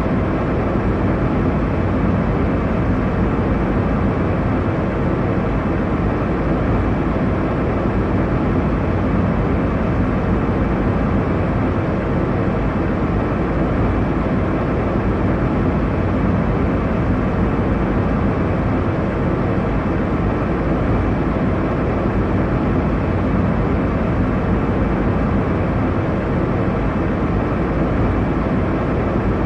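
Steady airliner cabin noise in flight: an even, low rushing hum that stays constant, dull in tone with little high hiss.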